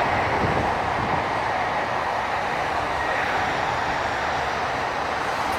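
Steady jet engine noise from an airliner, an even rushing sound with no breaks or sharp events.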